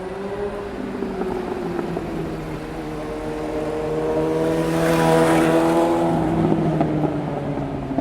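A motor vehicle passing by: its engine note grows louder to a peak about five seconds in, with a rush of tyre and air noise at the closest point, then fades as it moves away.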